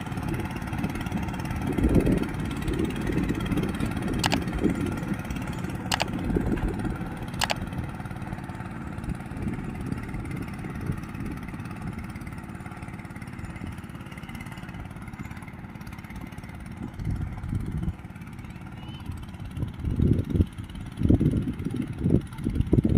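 Homemade mini tractor's engine running under load, a rough low rumble that swells and fades, with three sharp clicks partway through.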